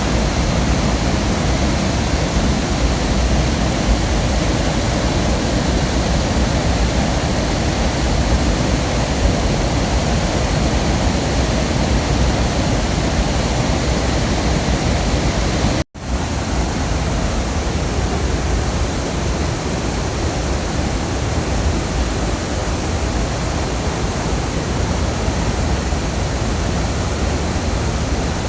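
Waterfall: a loud, steady rush of falling water. The sound cuts out for an instant about halfway through, then resumes.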